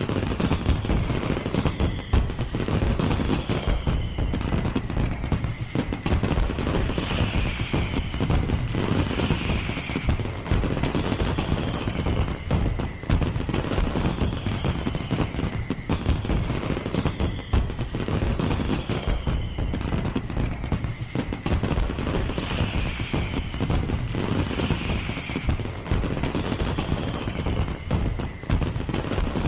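Firework display finale: a dense, unbroken barrage of rapid bangs and crackles, with music playing under it.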